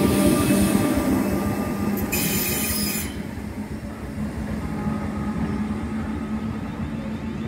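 Class 313 electric multiple unit pulling away and receding, its running noise over a steady low hum, with a brief high wheel squeal about two seconds in; the sound fades as the train draws away.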